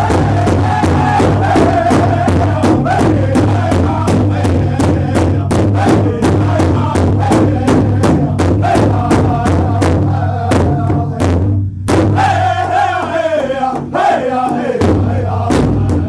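Band jamming loud: rapid drum hits over a steady bass line, with shouted, chant-like vocals. The bass drops out twice for a moment in the second half.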